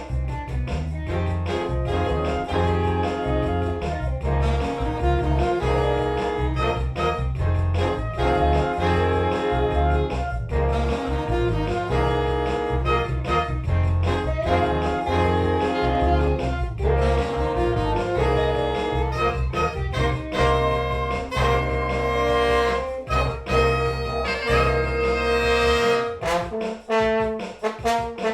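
Big band playing jazz: brass and saxophones in chords over a moving bass line, the ensemble thinning out near the end.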